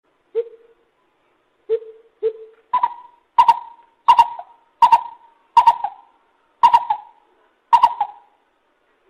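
Lesser coucal calling: three low hooting notes, then a run of eight louder, higher hoots at an even pace of about one and a half a second.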